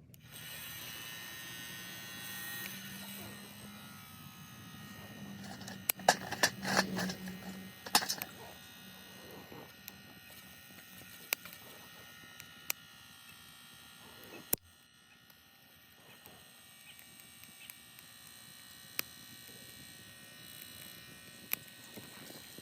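Small battery-powered blower fan of a Sierra wood-burning stove, running with a steady electric buzz. It drops lower about two-thirds of the way in. Sharp clicks and knocks come through it, a cluster of them about a quarter of the way in.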